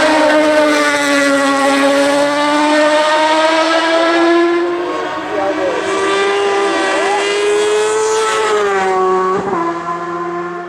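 Hill climb race car engine running hard at high revs, its pitch slowly climbing. Near the end the pitch drops briefly, then holds steady while the sound eases a little.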